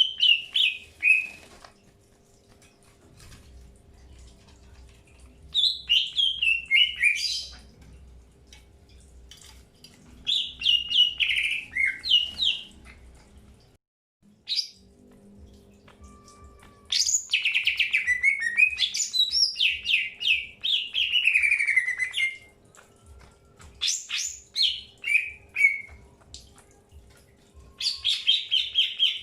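Green leafbird (cucak hijau) singing in bursts of quick, chattering, falling notes. The phrases last one to five seconds and come every few seconds, with short pauses between them. A longer run of song comes about two-thirds of the way in.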